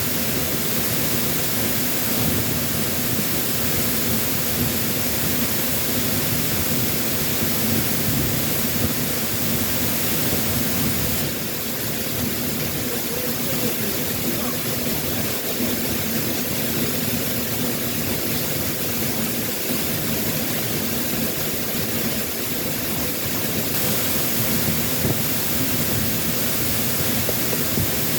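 Waterfall running high after a typhoon: a loud, steady rush of falling water.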